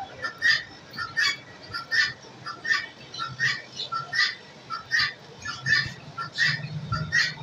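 Cage birds chirping, short sharp calls repeating every half second or so.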